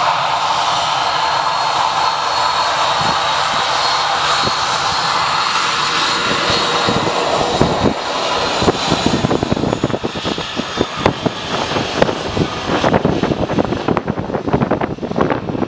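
Transall C-160 twin-turboprop arriving: a loud, steady engine roar with a high whine that fades about halfway through. Wind then buffets the microphone in gusts.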